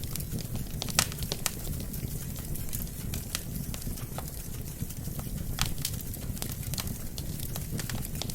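Wood fire burning in a fireplace: a steady low rumble of flames with irregular sharp crackles and pops from the burning logs, the loudest pop about a second in.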